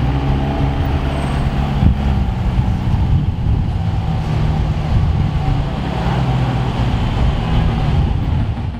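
McLaren supercar engine running steadily at low revs as the car crawls away, a deep, even engine note with a brief knock about two seconds in.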